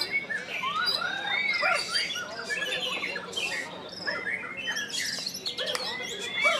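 Several songbirds singing and chirping at once, a dense tangle of overlapping whistles, trills and chirps with no pause.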